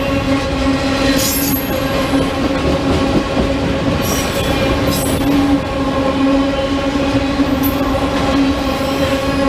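Train rolling by with a steady mechanical hum throughout, and a few brief high-pitched wheel squeals.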